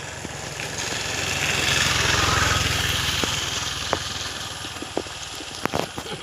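A motor vehicle's engine passing by: its low, even running grows louder to a peak a couple of seconds in and then fades away. A few short clicks come near the end.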